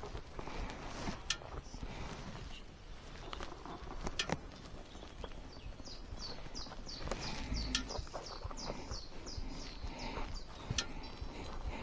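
A songbird calling in a quick run of short, high, falling notes, about two a second, starting around halfway through. Scattered sharp clicks and rustles come and go.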